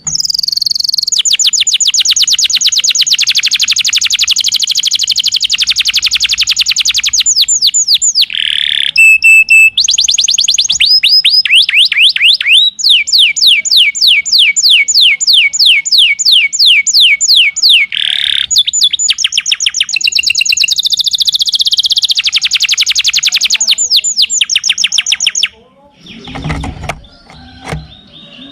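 Domestic canary singing long, loud, fast trills of rapidly repeated sweeping notes, phrase after phrase with brief breaks. This is the kind of full song used as a master recording to teach young canaries. The song stops a few seconds before the end, leaving a few low knocks.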